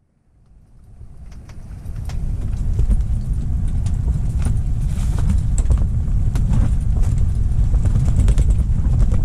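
Strong wind buffeting the microphone with a heavy, steady rumble, fading in over the first couple of seconds, with scattered sharp clicks and taps through it.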